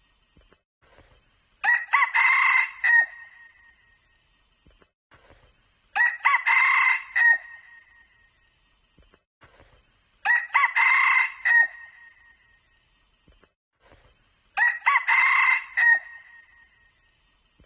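Red junglefowl crowing, four crows evenly spaced about four seconds apart, each short and clear with near silence between them.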